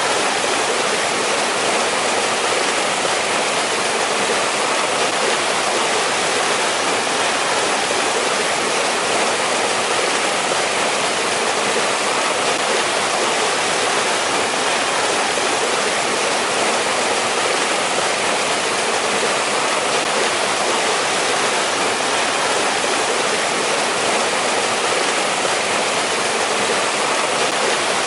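Steady rushing of water in a mountain valley stream, splashing without a break.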